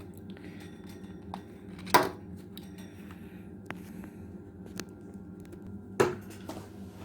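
Hard plastic clicks and clacks as the head of a Braun Silk-épil epilator is handled and taken off: two loud sharp clacks about four seconds apart, with lighter taps between, over a steady low hum.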